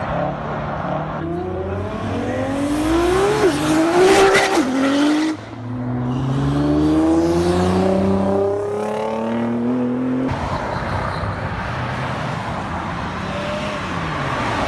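Car engines accelerating hard, the engine note rising through the revs and dropping back at gear changes about three and a half and five seconds in. A second long rising pull runs to about ten seconds in, followed by steadier engine and road noise.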